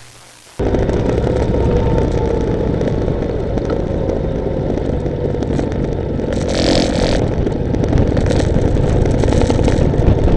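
Steady engine, road and wind noise of a vehicle on the move, starting abruptly about half a second in, with a short hiss about six and a half seconds in.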